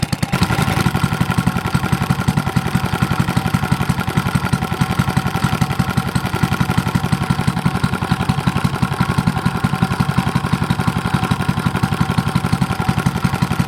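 Mitsubishi Katsura H3C small engine running steadily, its firing strokes making an even, rapid pulse; it gets slightly louder about half a second in.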